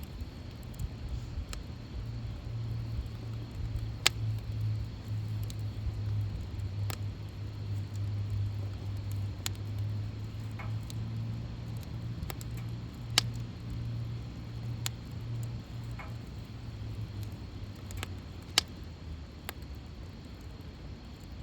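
Wood fire crackling in a fire stand, with sharp pops every second or two. A low steady hum runs underneath and fades near the end.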